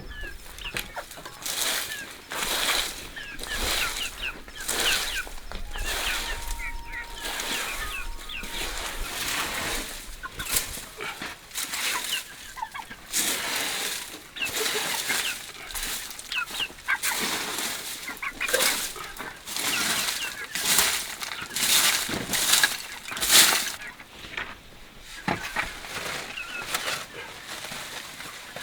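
Chickens clucking and chirping, with many short sharp clicks and rustles throughout.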